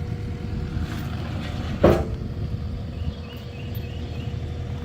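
Engine idling steadily, with one sharp knock a little under two seconds in.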